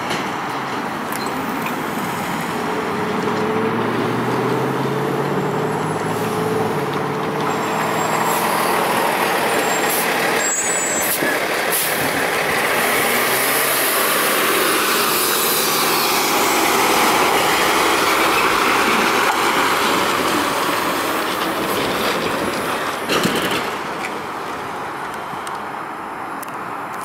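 Union Pacific freight train rolling through a railroad crossing: the steady rumble and wheel-on-rail noise of the cars and the diesel locomotive.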